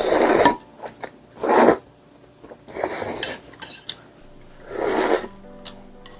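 Close-miked eating sounds: four short rasping bursts about a second or two apart, with a few light clicks of cutlery between them.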